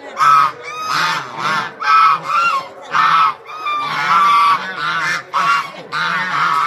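A flock of birds calling over and over, with loud pitched calls overlapping several times a second.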